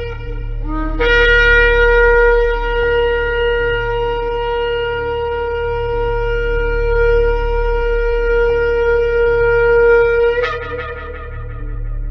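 Shofar blown in one long held blast: a short lower note about a second in rises into a steady note held for about nine seconds, which ends with a brief upward break near the end. A steady low hum lies underneath.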